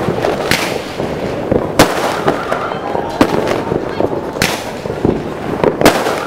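New Year fireworks going off: five sharp bangs about a second or more apart over continuous crackling.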